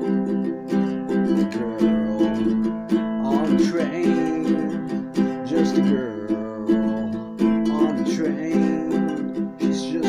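Instrumental passage of an acoustic song: a small plucked-string instrument, picked steadily in chords, with no lyrics sung.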